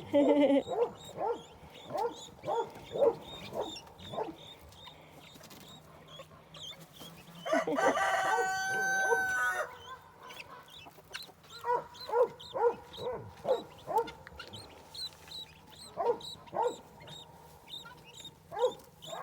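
Guinea fowl calling in short repeated notes, in bursts, with a guinea fowl keet peeping faintly and high. About eight seconds in, one louder drawn-out call lasts about two seconds.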